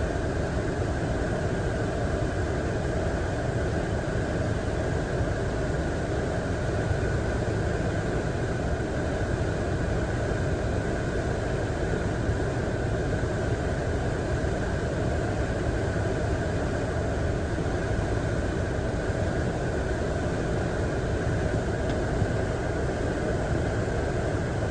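Chevrolet Cruze engine running steadily, an engine with a misfire.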